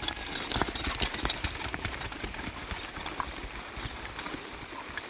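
Heavy rain falling, with many irregular sharp taps and knocks scattered through it.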